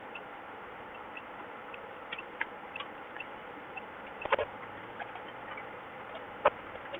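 Water dripping during typhoon rain: irregular taps and drips over a steady hiss, with two louder taps about four and six and a half seconds in.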